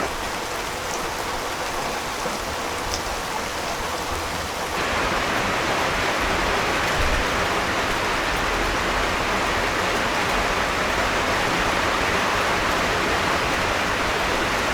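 Steady rain falling, which becomes louder and fuller about five seconds in.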